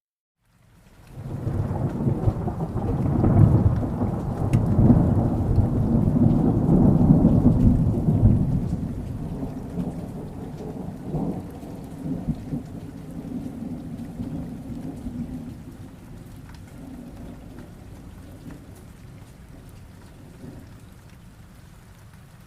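A long roll of thunder, over rain. It rises about a second in, rumbles loudest for several seconds, then slowly dies away.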